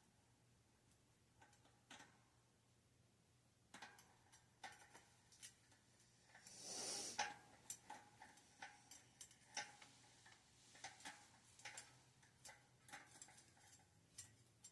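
Faint, irregular clicks and light knocks of bicycle parts and tools being handled, with a brief hiss about seven seconds in, the loudest sound.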